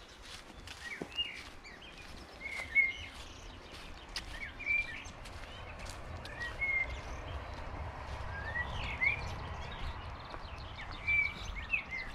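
Small birds chirping, short calls every second or so, over a low rumble that swells around the middle.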